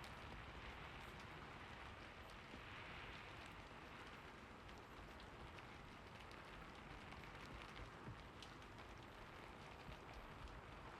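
Faint, steady rain hiss with scattered individual drops ticking through it.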